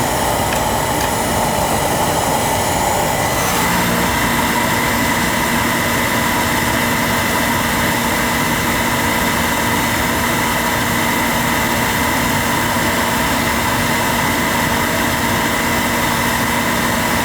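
Beckett oil burner running steadily, its motor, blower and fuel pump giving a loud hum with a steady whine, while the oil line is being bled of air after the tank ran dry. About three and a half seconds in the sound changes: a higher hiss drops away and a lower steady tone comes in.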